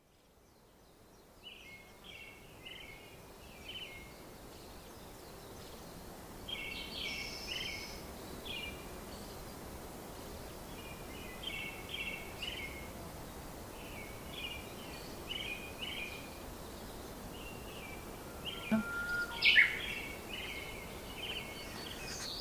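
A songbird singing short phrases of quick chirps, repeated every few seconds, over a steady outdoor hiss. A louder sharp sound cuts in once near the end.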